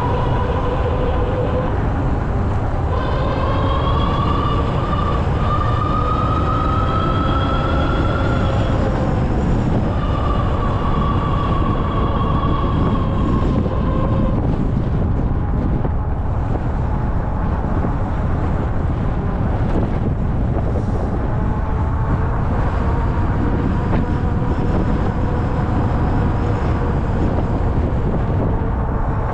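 Riding sound of an Ariel Rider Grizzly e-bike: steady wind rumble on the microphone and tyre noise, with the electric hub motor's whine climbing in pitch a few seconds in and again near the middle, then a fainter steady whine.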